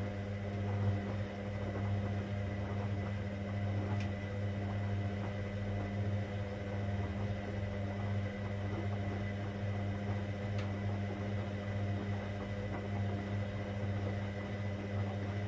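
Hoover Dynamic Next washing machine running on a cotton 60 wash: a steady, low machine hum, with a few faint clicks.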